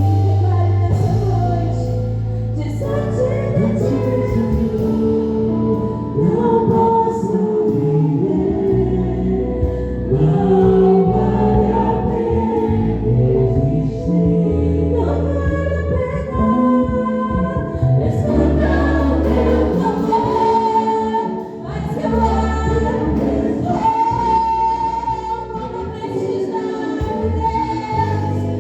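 Portuguese-language gospel worship song: several voices singing together over instrumental accompaniment with a bass line that moves from note to note.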